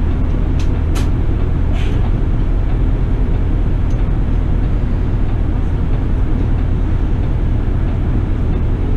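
City bus running, heard from inside the cabin: a steady engine and road rumble, with a few short clicks in the first two seconds.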